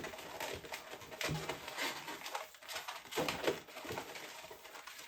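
Inflated latex 260 twisting balloons squeaking in a series of short, irregular squeaks as they are handled and twisted together.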